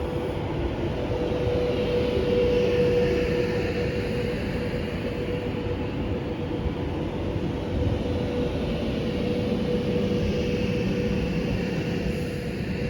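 Class 390 Pendolino electric train running through the station out of service: a steady rumble of wheels on rail with a constant hum from its traction equipment.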